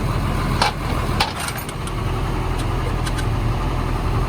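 An engine running steadily with a low hum, with a couple of sharp metal clinks about half a second and a second in.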